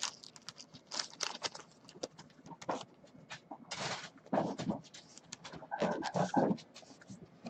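Trading cards being handled and slid over one another: scattered light clicks and rustles, with a brief hiss near four seconds and a couple of short, low pitched sounds around four and a half and six seconds in.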